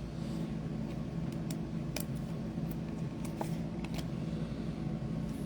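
Faint, light clicks and taps of trading cards being handled, over a steady low hum.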